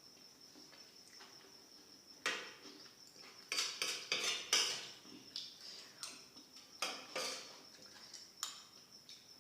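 Cutlery clinking and scraping against a plate while eating: scattered sharp clinks, busiest from about three and a half to five seconds in.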